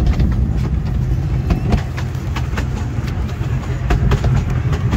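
Miniature railway train running along its track: a steady low rumble, with scattered sharp clicks.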